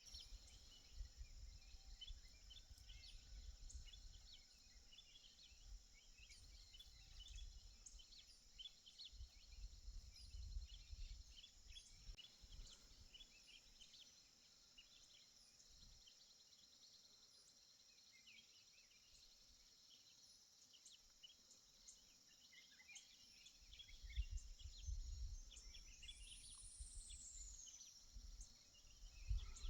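Faint natural ambience: a steady high insect drone with scattered short bird chirps and one longer falling call near the end. Low rumbles of wind on the microphone come and go several times.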